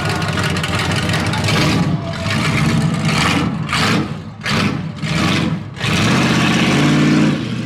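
Car engine revved through a loud exhaust: several sharp blips of the throttle, then a longer held rev that cuts off near the end.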